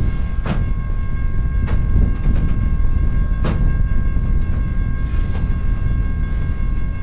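A freight train of flatcars loaded with track-maintenance machines rolling past: a loud, steady low rumble with a few sharp clicks of wheels over rail joints and a faint steady high whine.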